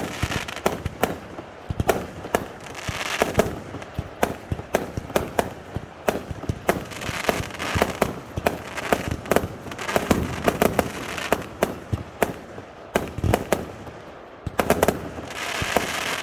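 Fireworks going off: a rapid, uneven string of sharp bangs and pops, several a second, with short crackling, hissing stretches between them.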